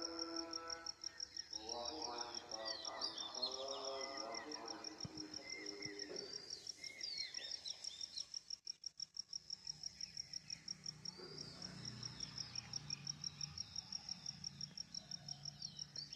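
An insect trills steadily in a high, pulsing tone at about seven pulses a second, with scattered bird chirps. A long, drawn-out pitched voice or call sounds over it in the first five seconds or so, then stops.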